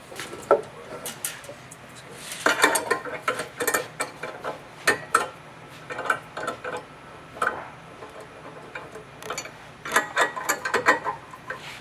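Irregular metallic clicks and clinks of a hand wrench working tight bolts loose on the steel plate of a clicker press, in several bunches with short pauses between.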